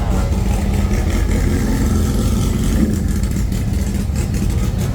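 A car engine running steadily with a low hum and no revving peaks.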